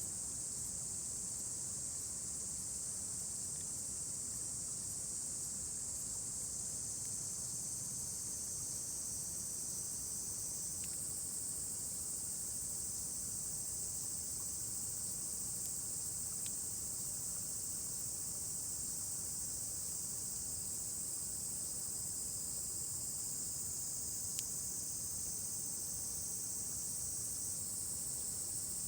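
Steady, high-pitched chorus of summer evening insects, with a few faint pops from the wood fire.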